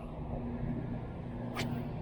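A steady low drone with a faint hum, and a single sharp click about one and a half seconds in.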